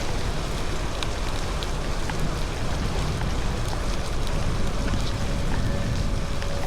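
Steady rain, with scattered raindrop ticks over a low, steady rumble.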